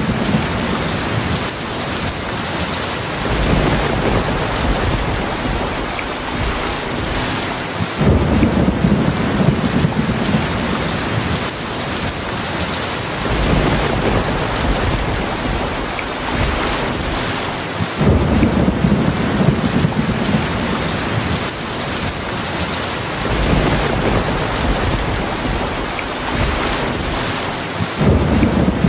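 Heavy rainstorm: steady rain with repeated low rumbles of thunder swelling and fading every five seconds or so.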